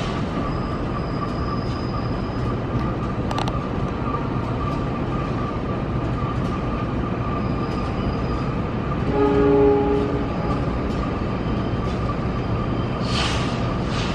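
KRL electric commuter train rolling slowly over depot tracks and points, with steady running noise and a thin steady whine. About nine seconds in it gives one short horn blast, about a second long and the loudest sound. A brief hiss follows near the end.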